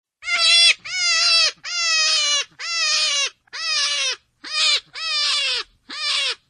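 Rabbit squealing: about nine short, high-pitched cries in a quick row, each ending in a slight downward slide.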